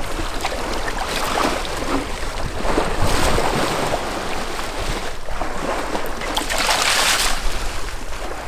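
Water rushing and splashing around a sailboat under way, with wind on the microphone. The rush swells several times and is loudest for about a second near seven seconds.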